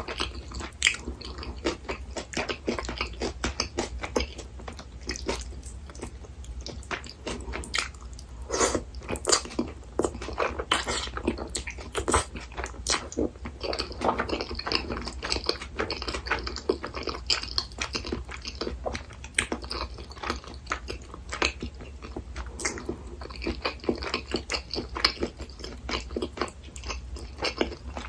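Close-miked eating sounds: a person chewing and biting soft food, making many small irregular wet mouth clicks throughout, over a faint steady low hum.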